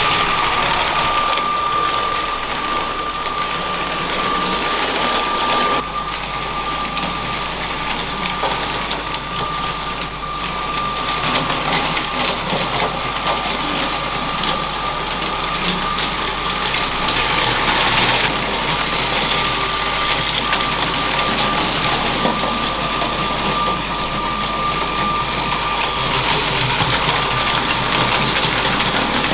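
LEGO train running on plastic track: the electric train motor's steady high whine over a continuous rattle of wheels on the rails, with faint clicks now and then.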